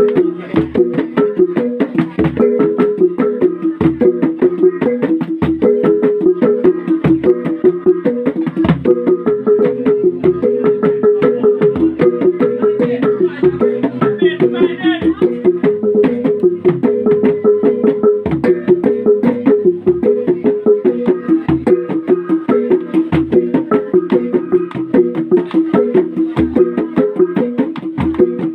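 Traditional Sumbanese gong ensemble playing a fast, steady interlocking pattern of pitched gong strokes, with a deep low stroke about every one and a half seconds.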